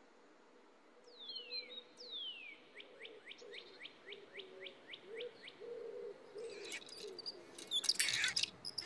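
Birdsong: two high whistles falling in pitch, then a quick run of about ten short rising chirps, three or four a second. Scattered clicks come near the end.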